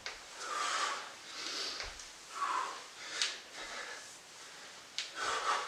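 A person breathing hard from exertion during a high-intensity workout: a series of short, noisy exhales through the mouth and nose, about one a second, with a few sharper puffs.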